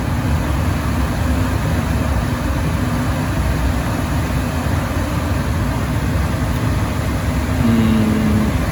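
Gas furnace running after being powered back on, a steady low mechanical rumble, with a short pitched hum rising out of it near the end.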